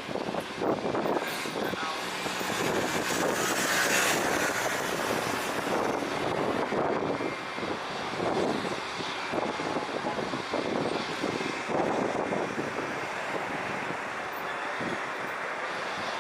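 Boeing 777 jet airliner's engines giving a steady rushing roar as it flies past on its landing approach.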